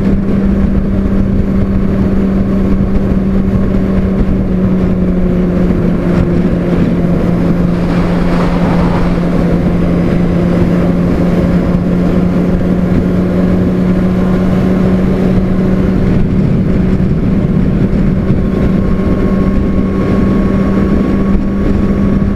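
Honda CBR600RR's inline-four engine running at a steady cruising pitch, with wind noise rushing over the microphone.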